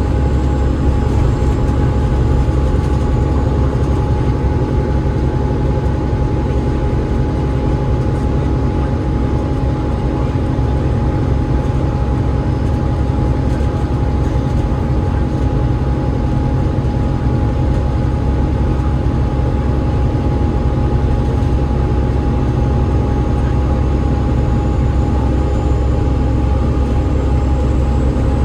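Double-decker bus in steady motion, heard from inside: its Cummins ISL8.9 straight-six diesel and ZF EcoLife automatic gearbox running with a heavy, even low rumble and a constant whine.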